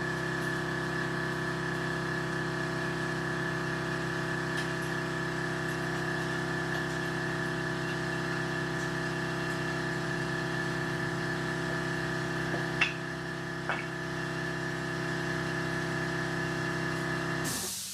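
A machine running steadily at one constant speed with a fixed, layered hum. It stops abruptly near the end. A couple of light clicks come over it shortly before it stops.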